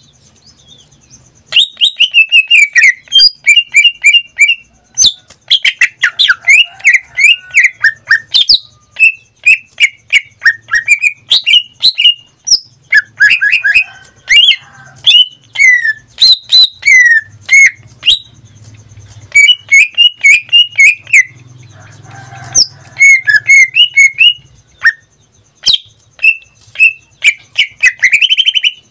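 Pet green leafbird (cucak ijo) in full song (gacor): a fast, varied run of sharp chips, quick rising and falling whistled notes and warbled phrases, starting about a second and a half in and going on in bursts with brief gaps.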